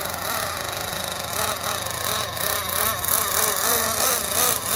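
Small nitro engine of a radio-controlled monster truck running, its pitch wavering up and down as the throttle is worked, under a steady rushing noise.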